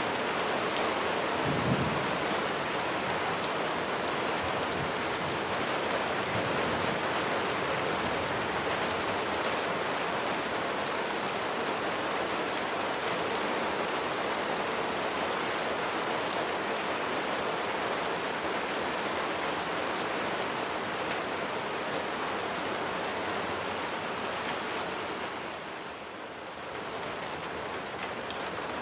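Steady rain falling and pattering on surfaces, with a short low rumble about two seconds in and a brief easing of the rain's loudness near the end.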